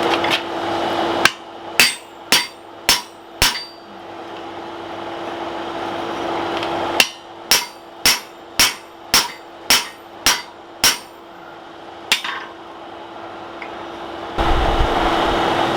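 Hand hammer striking hot steel on an anvil in short runs at about two blows a second: a blacksmith working the eye of a forged axe head. There are four blows, then eight, then a single one, over a steady hum that drops away during the blows.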